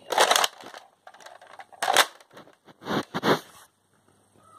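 Plastic Nerf blaster being handled, with three short bursts of rattling and clicking.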